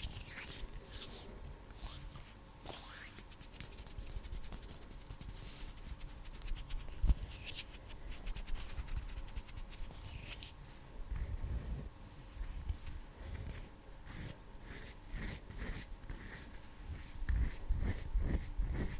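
Bare hands rubbing and brushing together close to a sensitive microphone, in soft swishes of skin on skin, with one sharper knock about seven seconds in. From about eleven seconds on the movements turn quicker and denser, like fast finger flutters.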